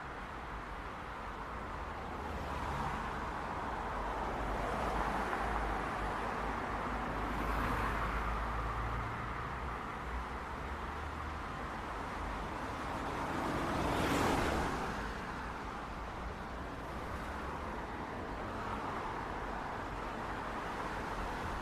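City street traffic: a steady wash of tyre and engine noise with a low rumble, swelling as several vehicles pass, the loudest and closest pass about 14 seconds in.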